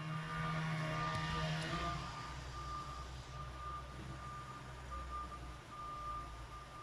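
Truck reversing: its backup alarm beeps repeatedly over the low running of its diesel engine.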